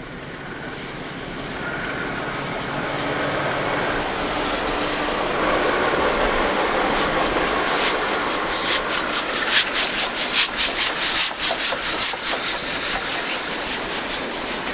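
A train passing close by: a diesel locomotive's engine and rail noise build up first, then from about eight seconds in the steam locomotive AB 663 goes by working hard, its exhaust beating sharply about two or three times a second.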